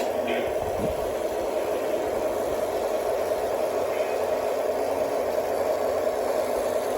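O gauge model train running on the layout, its electric motors and wheels on the track making a steady even hum.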